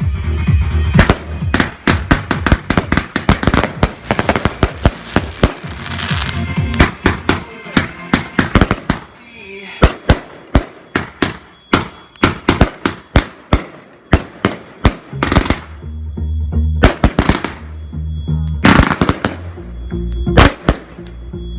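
Fireworks going off: rapid volleys of bangs and crackles, thinning to separate bangs after about ten seconds, with music playing underneath.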